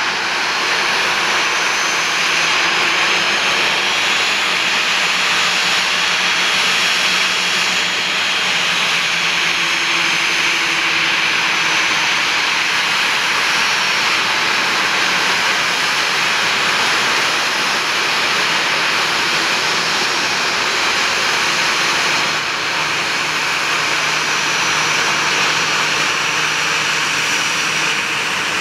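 Two General Electric CF6-80C2 turbofans of an Airbus A310 at takeoff thrust: a steady, loud jet noise with faint whining tones that drift slowly in pitch.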